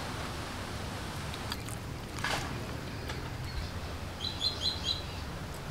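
Small bird chirping in quick runs of short high notes late on, over a steady low background hum, with a brief rustling noise about two seconds in.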